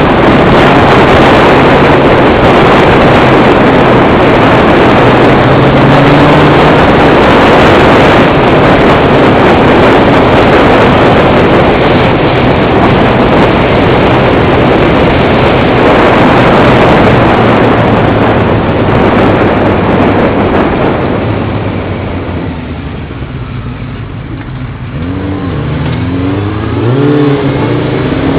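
Motorcycle riding at speed with a loud wind rush on the bike-mounted camera's microphone, over the steady tone of the engine. About three-quarters of the way through, the rush eases and the engine comes through more plainly, revving up in rising sweeps of pitch near the end.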